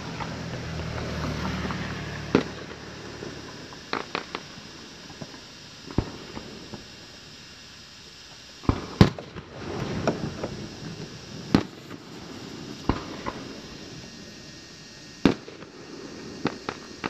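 Aerial fireworks shells bursting: about fifteen sharp bangs at irregular intervals, some in quick pairs, the loudest pair about nine seconds in. A low hum runs under the first three seconds.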